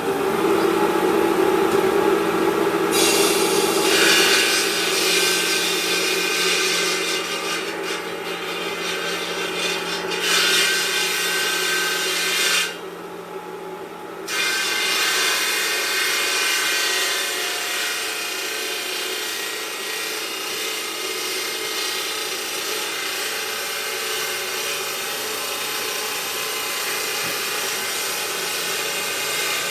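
Power tools grinding and cutting marble stone, a steady abrasive noise with a whine, shifting between passes. It briefly drops away about 13 seconds in.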